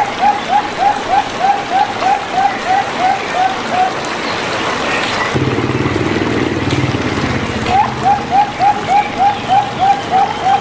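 Zebra dove (perkutut) cooing: a run of short, quick notes, about three a second, that stops after about four seconds and starts again near the end. A low drone fills the gap, and a steady rain-like hiss runs underneath.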